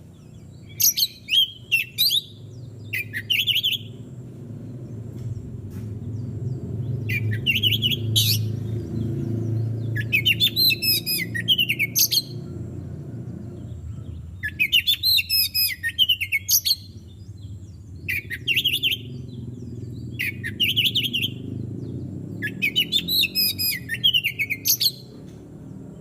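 Oriental magpie-robin singing: short bursts of rapidly varied whistled phrases, one every two to three seconds, over a steady low rumble.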